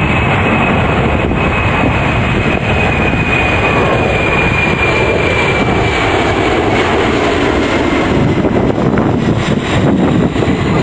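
Aircraft engine noise: a loud, steady rushing sound carrying a high whine that slowly falls in pitch over several seconds.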